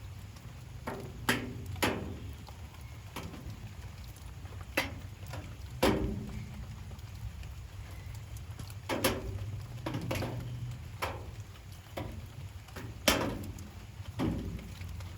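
Rainwater dripping in large, irregular drops that strike a hard surface, about a dozen sharp taps, some with a short hollow ring, over a steady low rumble.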